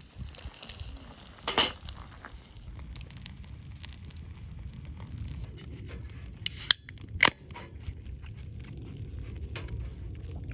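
Wood campfire crackling over a low steady rumble, with scattered small pops and a few sharp loud snaps, the loudest a little past the middle.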